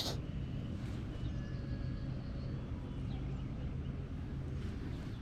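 Outdoor lakeside ambience: a steady low rumble, a sharp click right at the start, and a few faint, thin whistle-like tones in the first few seconds.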